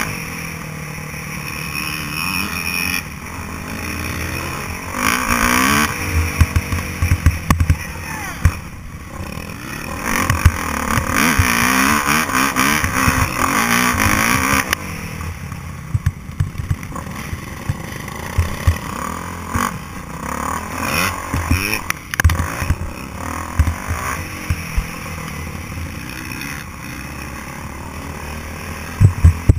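Motocross motorcycle engine revving up and easing off again and again, with frequent short thumps and rattles.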